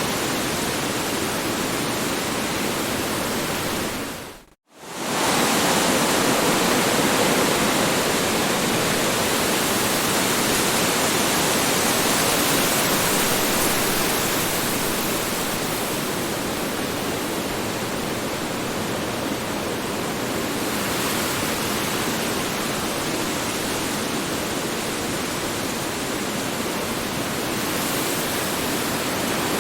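Strong wind sound effect: a steady, even rushing that fades out to nothing about four seconds in, then comes straight back, like the seam of a looped recording.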